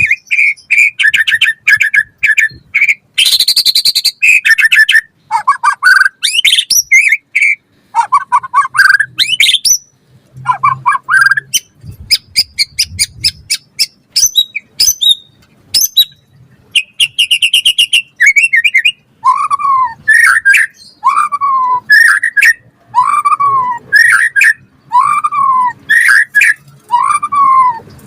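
White-rumped shama (murai batu) singing a loud, varied song of whistled phrases, rapid chattering notes and trills. From about two-thirds of the way in, it repeats one arching whistled note about once a second.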